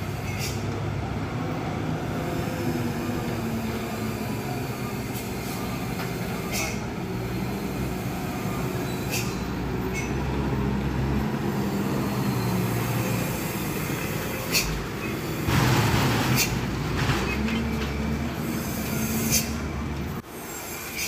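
Bus on the move: a steady engine drone and road noise, with scattered clicks and rattles and a louder rush of noise about fifteen seconds in.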